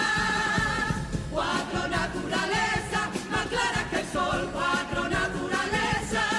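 Carnival comparsa chorus singing in several-part harmony with wavering held notes, over a steady drum beat.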